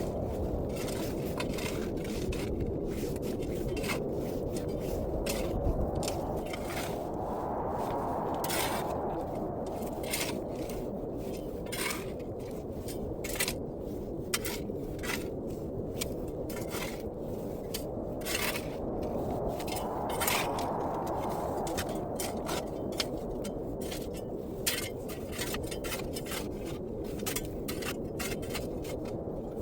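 Steady blizzard wind with two stronger gusts swelling up, about 8 and 20 seconds in, and many short sharp clicks and crackles scattered throughout.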